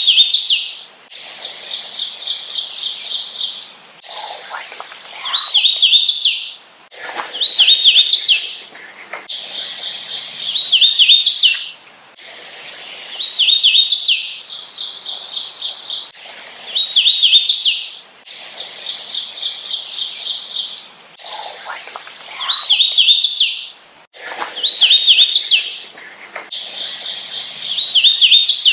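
Hooded warbler singing over and over, a phrase about every two seconds. Each phrase is a run of clear, slurred whistled notes, often ending in a sharp rising note. The short recordings are spliced together, so the background hiss shifts between phrases.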